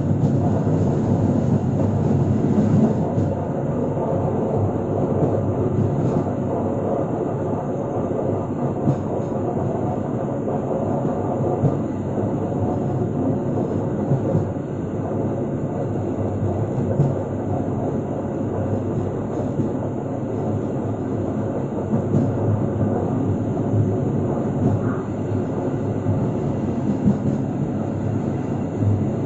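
Passenger train running along the track: a steady rumble of wheels and carriage on the rails, with a few sharp clicks here and there.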